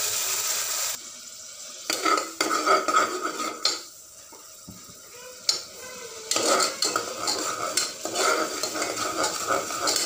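Ground shallot paste going into hot sesame oil in a pressure cooker with a loud steady sizzle that drops suddenly about a second in. Then a steel spoon scrapes and clinks against the pot as the paste is stirred and fries, with a quieter stretch in the middle.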